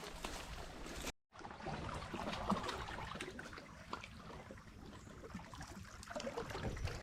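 Water sloshing and splashing, with many small clicks through it. It breaks off abruptly for a moment about a second in and then resumes.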